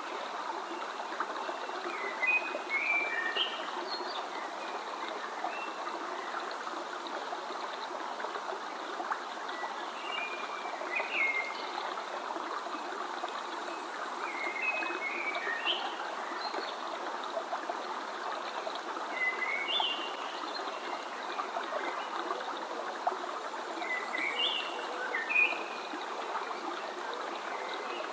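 A stream running steadily, with a small songbird singing short bursts of high chirps, repeated about every four to five seconds.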